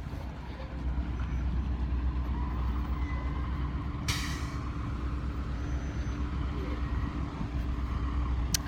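School bus engine running with a steady low rumble and hum, and a short air-brake hiss about four seconds in. A sharp click near the end.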